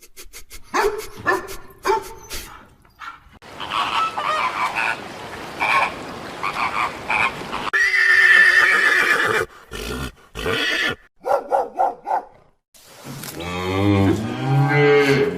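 A string of different animal calls, one after another, ending with a long low call that rises and falls.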